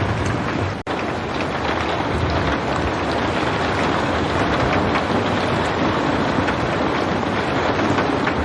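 Steady, dense rain falling, an even hiss with no thunder, broken by a very short dropout just under a second in.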